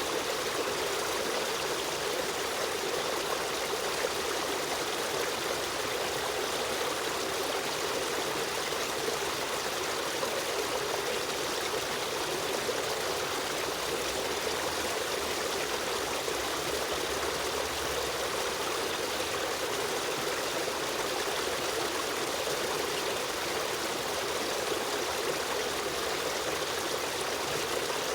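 River stream running steadily, a continuous even rush of flowing water with a trickling edge.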